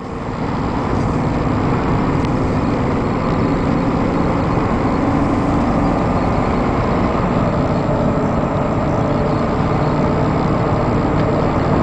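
The 2002 Chevy 3500 truck's engine running steadily, heard from inside the cab, swelling in level over about the first second. The engine is known to have a miss.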